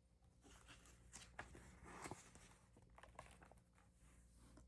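Near silence: room tone with a faint low hum and a few faint, scattered rustles and light clicks.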